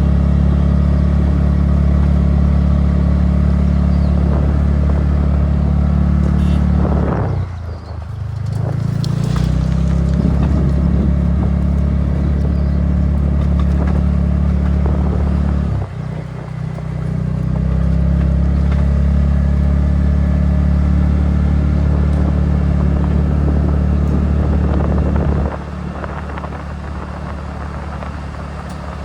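TVS Ntorq scooter's single-cylinder engine running steadily under throttle on the move. It eases off and picks up again twice, about 7 and 16 seconds in, then settles to a lower, quieter running near the end.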